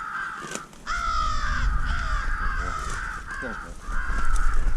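American crows cawing, many harsh caws overlapping into a steady clamour, louder from about a second in. A low rumble sits underneath.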